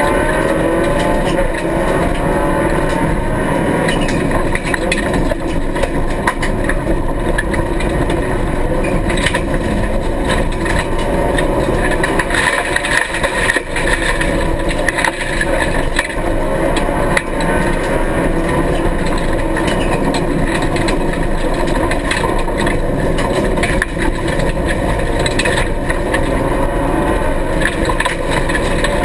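Rally car engine running hard through the revs, heard from inside the stripped cabin, with pitch rising and falling as the driver accelerates and lifts. Frequent sharp knocks break through from the rough dirt surface.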